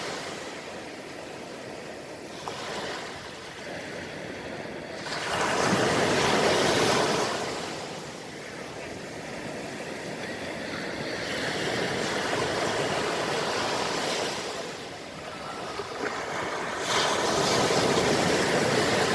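Small, calm sea waves breaking and washing up a sandy beach, the surf swelling and fading three times: about five seconds in, around eleven seconds, and near the end.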